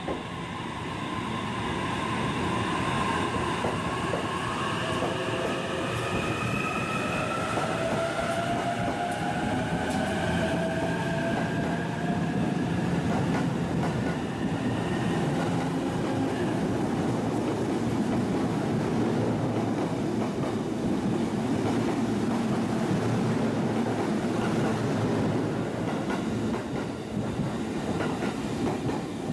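JR East E233-series electric commuter train pulling out and accelerating: its traction motors whine in several tones that rise in pitch over roughly the first fifteen seconds. After that comes a steady rumble of wheels on rail, with some clacking over rail joints, as the carriages roll past.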